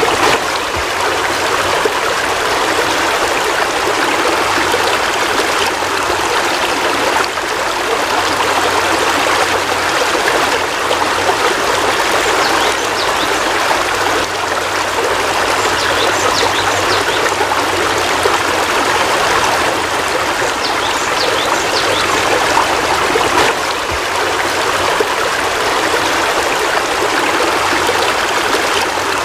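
Heavy rain falling steadily, an even, continuous hiss.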